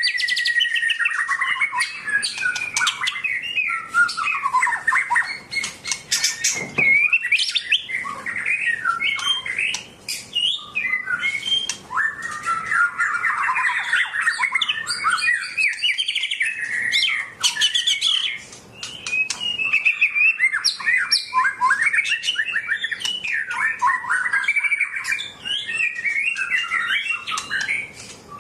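A songbird singing a long, continuous, varied song of rapid chirps, warbles and squawky notes, with sharp high chips mixed in and only brief pauses.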